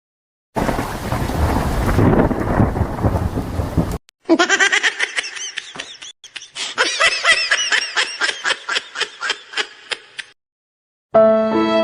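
Sound-effect clips in sequence: thunder with rain noise, cut off abruptly after about three and a half seconds, then a stretch of laughter in quick repeated bursts. Violin music begins near the end.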